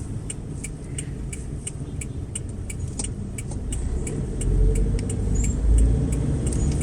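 Car engine running low under a steady ticking of the turn-signal relay, about three clicks a second. The engine note grows louder about four and a half seconds in as the car pulls away.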